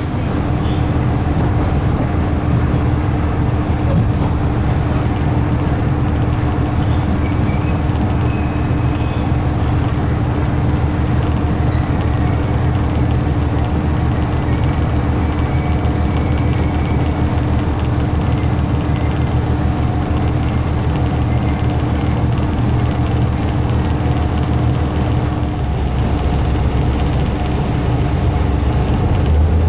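Diesel railcar running along the track with a steady rumble and a constant hum. Thin, high wheel squeals come in about eight seconds in and again for several seconds from around eighteen seconds.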